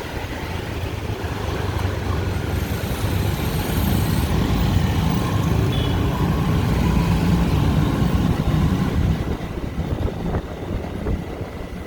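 City street traffic: motorbike and car engines running as vehicles pass, a steady low rumble that swells louder through the middle and eases off near the end.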